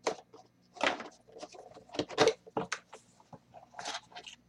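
Cardboard box being torn open at its perforated tabs: a string of irregular crackles and snaps of tearing and bending cardboard, loudest about a second in, around two seconds in and again near the end.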